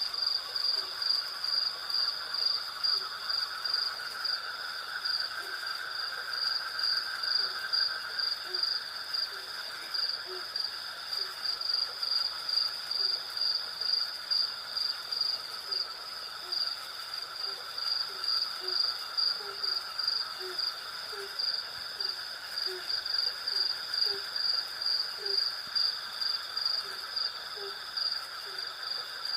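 Night insect chorus of crickets: a high, pulsing trill at about two pulses a second over steady high chirring, with a short low call repeated about once or twice a second beneath it.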